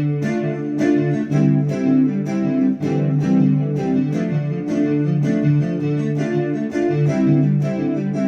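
Roland Fantom FA76 synthesizer playing a funky electric-piano patch: rhythmic chords over a bass line, with fresh note attacks about twice a second.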